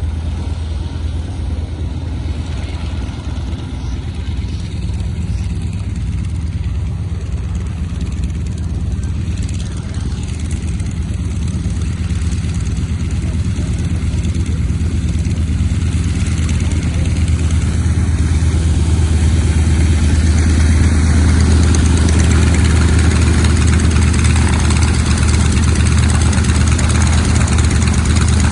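Piston aircraft engine running steadily at low power, growing louder about halfway through.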